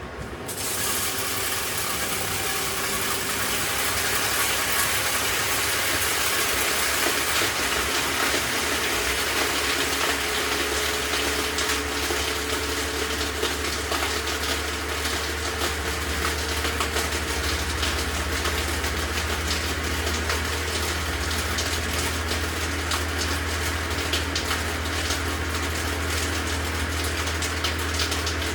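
LG WM6700HBA front-load washing machine running: a steady rush of water starts abruptly about half a second in, with a low machine hum that grows stronger in the second half and scattered light ticks.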